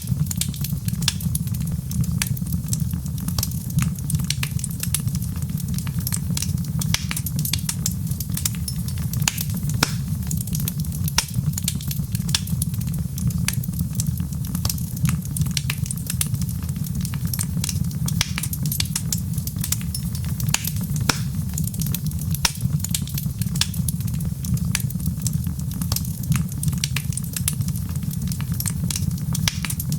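Wood fire crackling with frequent sharp pops and snaps over a steady low rumble.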